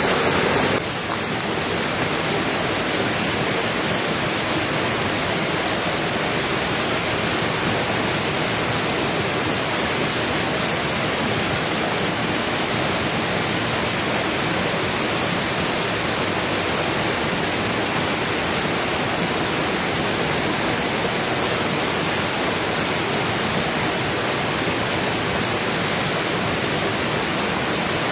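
Steady heavy rain: an even rushing hiss with no separate drops or knocks, changing slightly in tone just under a second in.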